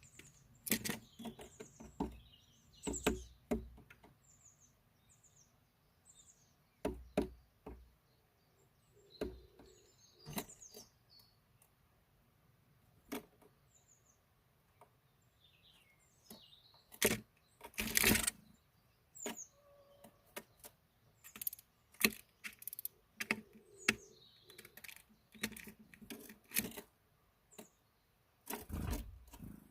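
Small birds chirping with short, high calls, among many irregular sharp taps and clicks, a few of them louder knocks.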